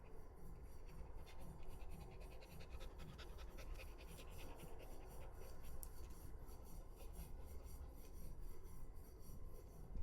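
A Shiba Inu dog panting quickly, a fast run of short, even breaths.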